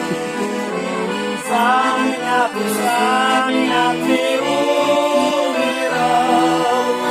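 Accordion playing a slow hymn tune, a wavering melody over held bass chords.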